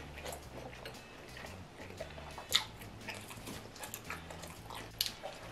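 A person chewing a mouthful of grilled pork close to the microphone, with soft wet mouth clicks and smacks; one sharper click about two and a half seconds in.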